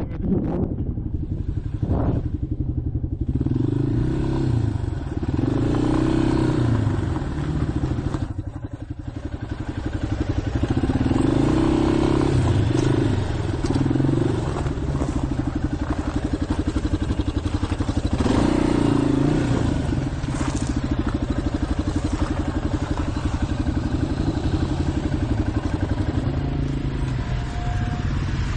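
Motorcycle engine running under way, its note rising and falling with the throttle, easing off briefly about eight seconds in.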